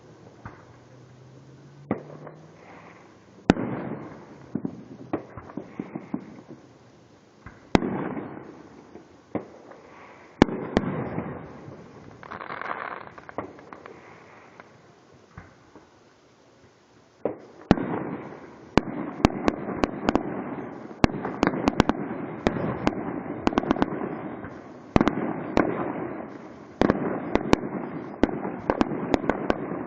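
Fireworks going off: single sharp bangs every few seconds, each trailed by a rumbling echo. A little past halfway this gives way to a dense, continuous barrage of crackling and popping bursts.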